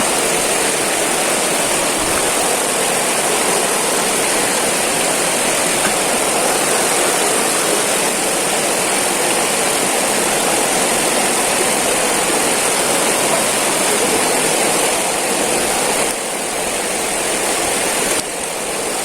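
Steady rushing of river water at a waterfall, with a slight drop in level about three seconds before the end and again near the end.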